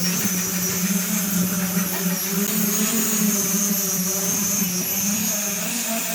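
An electric power tool's motor running steadily, with a constant hum and a high whine that waver slightly as the load changes.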